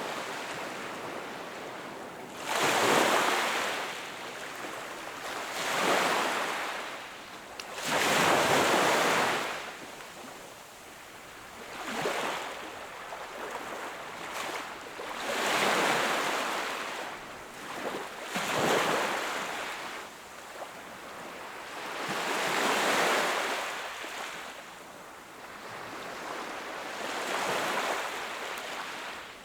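Sea waves breaking and washing up the shore: a steady wash of surf with a rush every two to four seconds, each swelling and fading over a second or two.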